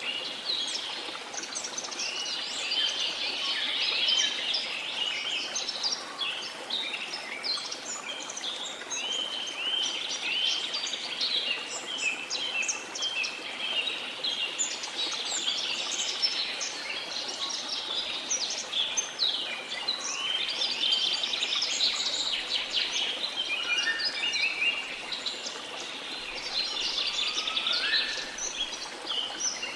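A dense chorus of many forest birds chirping and trilling over a steady rushing waterfall, with a few rising whistled calls near the end.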